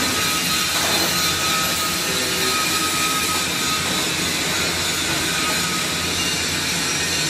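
Steady, loud machinery noise: an even hiss with a constant low hum underneath.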